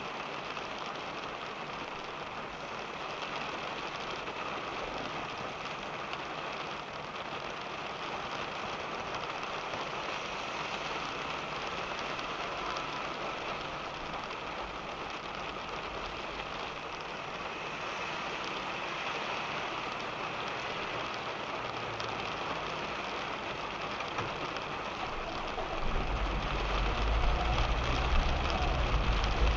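Steady rain falling on a car, heard from inside the cabin. Near the end a deep rumble joins in and the sound grows louder.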